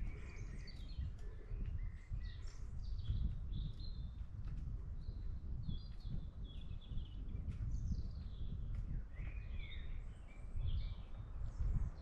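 Songbirds calling and singing in many short chirps and warbled phrases, over a steady low rumble.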